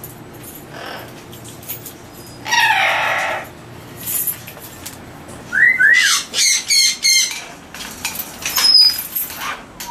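Captive parrots calling in an aviary: one loud harsh call about two and a half seconds in, then a quick run of short squawks and rising whistles around six to seven seconds, and more calls near the end.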